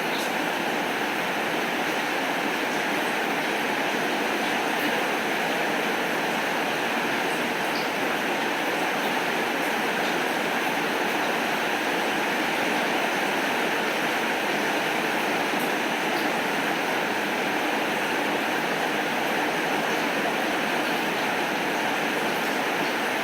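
Steady rain falling, an even rushing hiss with a few faint ticks scattered through it.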